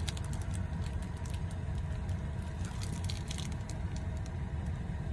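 Someone chewing a bite of a gooey pecan pie bar, with its plastic wrap crinkling at the start and again about three seconds in, over a steady low rumble inside a car.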